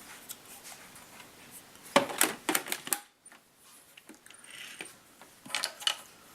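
Hard plastic clicks and knocks from handling a Roomba 650 robot vacuum as it is turned over: a cluster of sharp clicks about two seconds in and another near the end.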